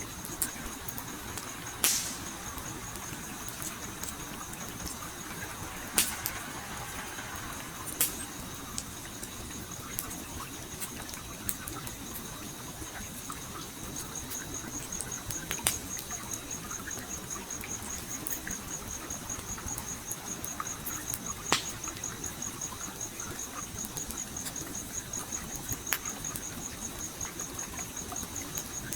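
Campfire crackling, with about six sharp wood pops a few seconds apart, over the steady rush of a flowing stream. A cricket chirps in a fast, even high trill throughout, stronger in the second half.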